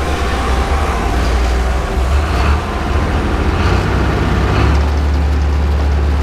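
Engine of a 1968 Atlas excavator running steadily as the machine is driven, a deep low drone that steps up in level about three-quarters of the way through.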